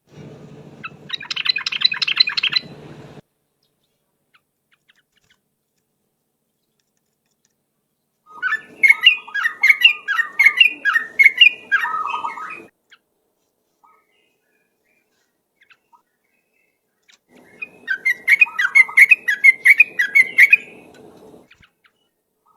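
Sooty-headed bulbul (trucuk) singing in rapid chattering phrases, three bursts of a few seconds each with silence between them.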